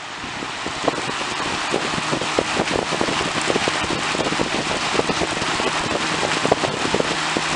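A 1999–2000 Lasko 3733 box fan, its motor freezing cold, running up on high speed. The rush of air grows steadily louder as it gains speed, with irregular rattling clicks from its unbalanced blade.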